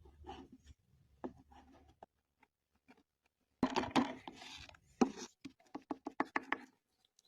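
Food-preparation handling sounds: scattered light clicks, then a louder burst of rustling and clattering about halfway through, followed by a quick run of sharp taps, about five a second.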